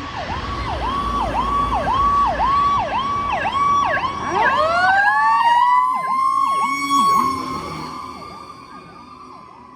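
Emergency-vehicle sirens, fire apparatus: a fast electronic yelp, joined about four seconds in by a second siren winding up into a rising wail. The wail holds high, then fades and falls away near the end.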